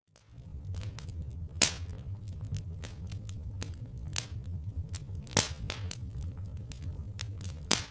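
Log fire crackling with irregular sharp pops over a steady low rumble; three pops stand out, about a second and a half in, past the middle, and near the end. The sound drops out for a moment at the very start and fades back in.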